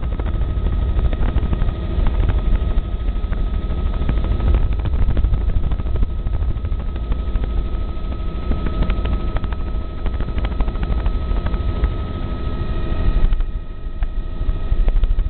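Helicopter in flight: a steady, dense rotor and engine noise with a thin, steady whine above it, dipping briefly near the end.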